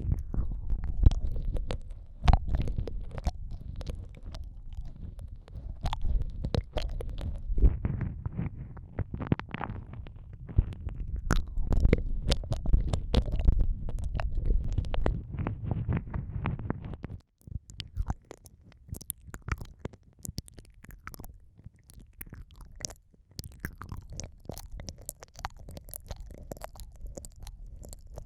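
Close-up ASMR ear-eating mouth sounds: wet clicks, smacks and licking right against the microphone, over a muffled low rumble. About two-thirds of the way through the rumble drops away suddenly, leaving lighter, crisper wet clicks.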